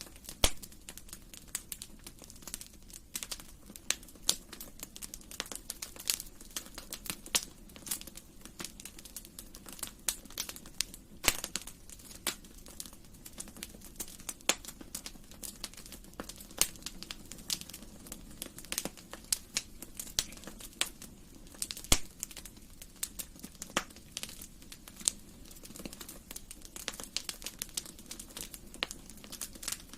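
Wood fire burning in a fireplace, crackling with many irregular sharp pops and snaps over a low steady hiss; a few pops stand out louder.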